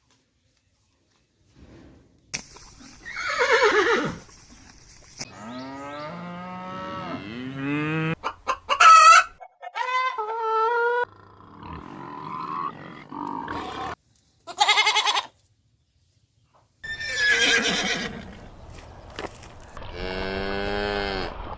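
A series of farm animal calls, about seven separate ones with short pauses between them, several long and wavering in pitch.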